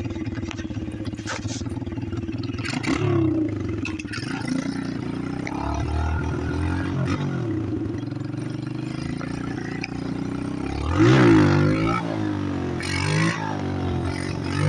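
Chinese pit bike engine running under the rider, picking up revs about three seconds in and easing off and rising again midway. About eleven seconds in it revs up hard, and the pitch climbs and drops several times before the end.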